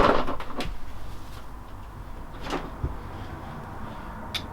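Tools being handled: a few separate light clicks and knocks, like sockets or a wrench being picked up and set down, over low background hum.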